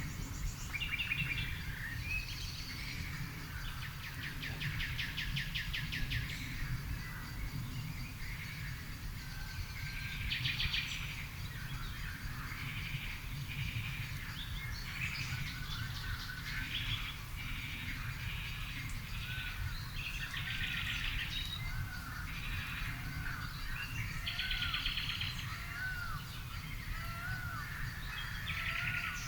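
Several garden birds singing and calling: rapid trills every few seconds, with short arched chirps that grow more frequent towards the end. A steady low rumble runs underneath.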